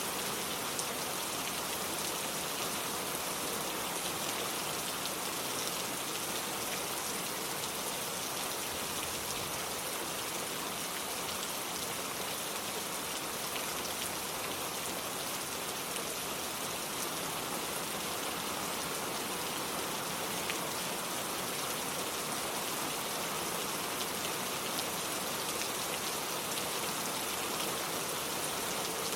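Steady rain falling and pattering on hard surfaces, an even hiss with scattered faint drop ticks.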